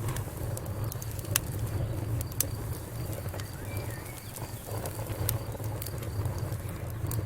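Crackling fire: scattered sharp pops and snaps at irregular intervals over a steady low rumble.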